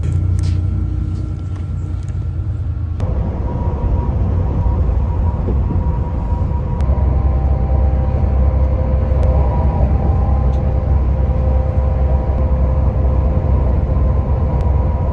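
Steady low rumble of a vehicle in motion, heard from inside, with a constant hum over it. The sound changes abruptly about three seconds in and again near seven seconds, as between separate clips of the ride.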